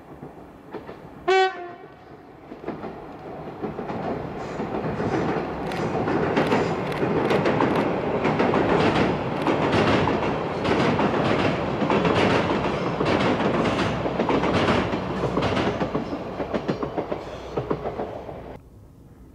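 Diesel multiple-unit train gives a short horn blast, then crosses a steel truss bridge: a building rumble of engine and wheels with a steady clickety-clack of wheels over rail joints, about two clacks a second. The sound cuts off suddenly near the end.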